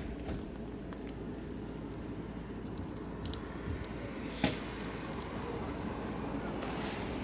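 Oak and beech wood fire burning with scattered small crackles and one sharper pop about four and a half seconds in.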